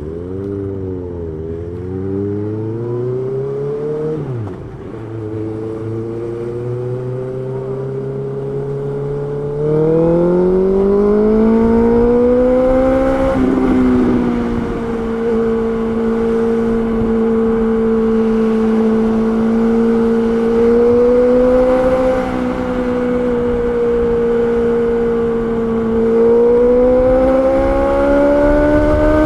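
Honda CB650R's inline-four engine under way: it climbs in pitch, drops sharply about four and a half seconds in as if shifting up, then climbs again and holds a steady pitch for long stretches, rising once more near the end.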